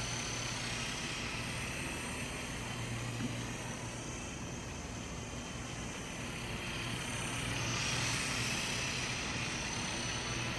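Sky Rover toy RC helicopter in flight, its small electric motors and rotors making a steady whirr with a thin high whine. It grows a little louder about eight seconds in.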